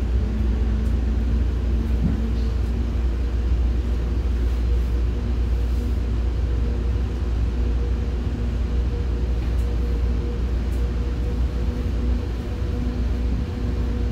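Steady running rumble of a moving commuter train heard from inside a passenger coach, with a faint steady hum on top.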